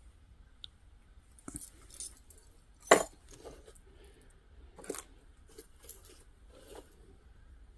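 Small metal jewelry pieces clinking and rattling as they are rummaged through in a box, with a sharp clink about three seconds in and several lighter ones after.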